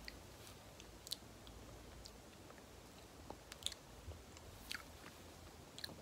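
Soft, sticky mouth sounds of banana being chewed close to the microphone: scattered wet clicks and smacks, a few louder ones.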